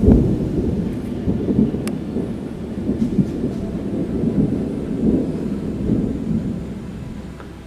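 Rolling thunder: a loud peak right at the start, then a long low rumble that swells and ebbs several times and fades away near the end.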